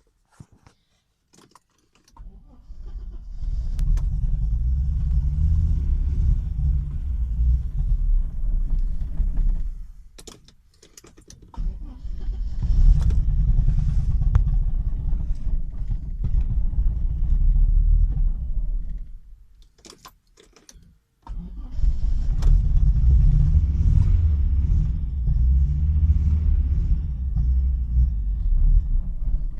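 Audi Coupe's swapped-in AAR 2.3-litre five-cylinder engine started three times. Each time it runs unevenly for about seven or eight seconds, then stops, with key clicks in the short gaps between. The engine is hard to start and misfiring after the engine swap.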